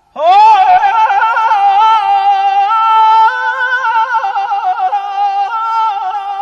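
A solo voice in Persian classical singing style, holding a long wordless phrase. It slides up into its first note, then moves through fast warbling trills between held notes.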